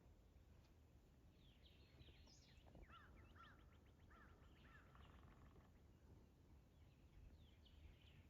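Faint songbirds singing: scattered chirps and short whistled phrases, with a quick trill about three seconds in, over a low steady outdoor rumble.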